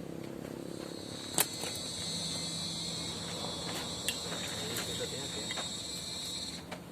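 An insect calling with a steady, high-pitched, unbroken note that starts about a second and a half in and stops shortly before the end. A sharp click just before the call starts, and a few fainter clicks during it.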